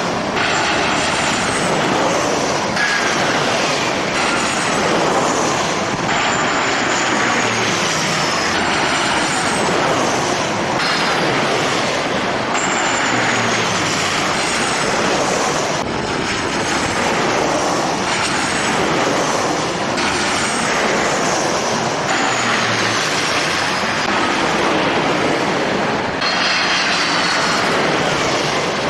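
Jet airliner engines running loud, with high whines that glide down in pitch, over a dense rush of noise. The sound changes abruptly every few seconds.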